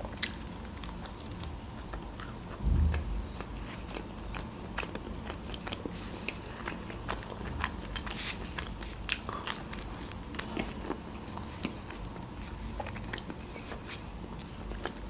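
Close-miked biting and chewing of a pizza slice, with crisp crusty crunches and many small sharp mouth clicks. A single low thump comes about three seconds in.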